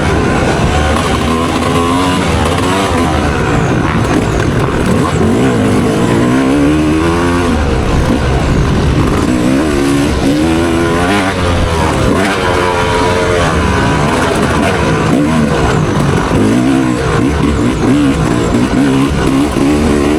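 Motocross dirt bike engine under race throttle, revving up and falling back again and again as the rider accelerates and backs off through the track, with wind and track noise underneath.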